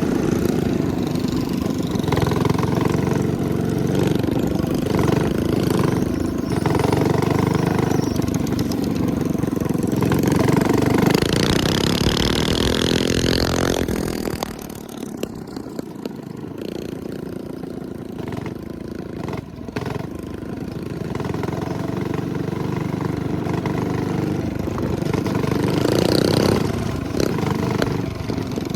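Minibike with a small 212cc single-cylinder engine running under way. It is loud at first, eases off about halfway through, then picks back up.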